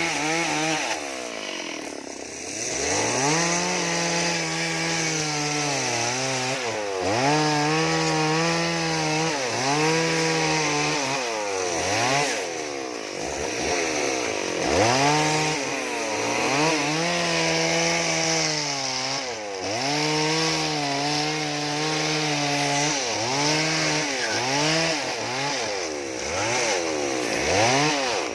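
Two-stroke chainsaw revved up and let back down again and again, every two seconds or so, as it carves wood.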